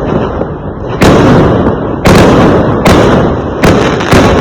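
Fireworks going off: about five loud, sudden bangs spaced a half to a second apart, each dying away slowly before the next.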